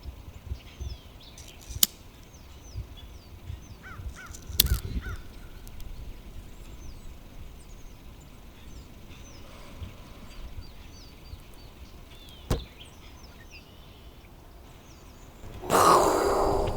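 A flock of birds calling throughout, including crows cawing. Three sharp clicks break in. A loud, harsh burst of noise comes near the end.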